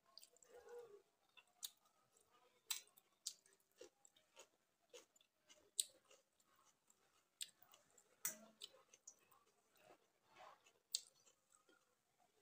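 Close-up eating sounds: a person chewing soaked rice (panta bhat) eaten by hand, with irregular sharp wet mouth clicks and lip smacks, fairly quiet.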